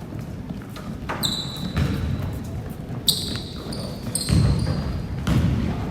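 A basketball bouncing on a gym floor during play, several irregular thuds, with short high squeaks of sneakers on the court about a second in and again about three seconds in. A low murmur of the crowd and players runs underneath.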